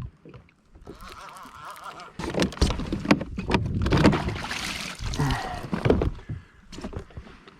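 Water splashing and irregular knocks against a fishing kayak, loudest from about two seconds in to near the end, while a hooked wahoo (ono) is fought at the boat.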